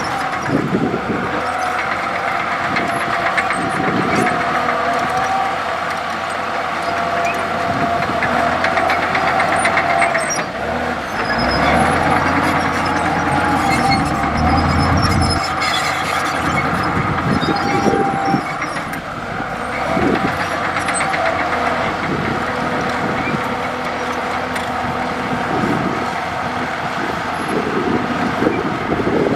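Komatsu D65E bulldozer's diesel engine running steadily under load, with repeated knocks throughout and a heavier low rumble near the middle.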